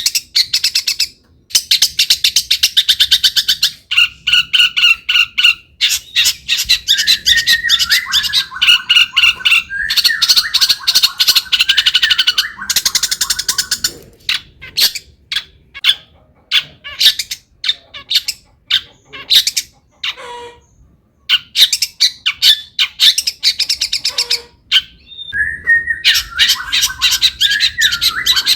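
Long-tailed shrike (cendet) singing in full, mimicry-laden song: fast runs of harsh, rapidly repeated chattering notes with warbled phrases that wander up and down, thinning to scattered single notes through the middle.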